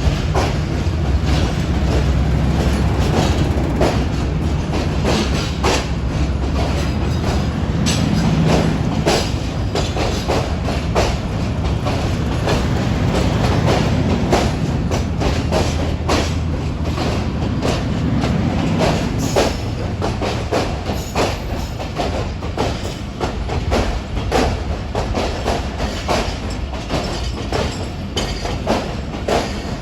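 A diesel-hauled passenger train running slowly into a station, its coach wheels clacking over rail joints. The ZCU-30 diesel locomotive's low engine hum is strong for the first several seconds and then fades as the coaches roll on.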